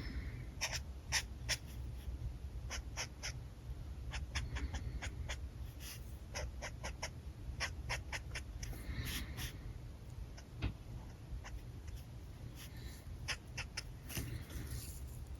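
Alcohol markers working on paper: irregular light clicks and taps, with a few short scratchy strokes.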